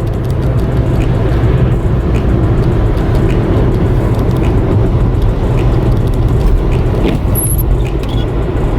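Steady low road and engine rumble heard inside a moving car's cabin while driving over a bridge.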